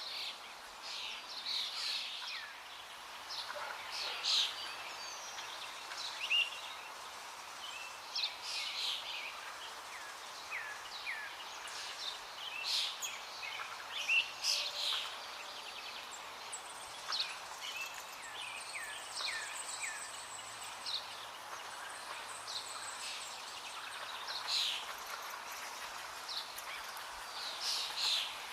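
Small birds chirping, many short quick calls and downward-sweeping notes that come and go throughout, over a steady background hiss.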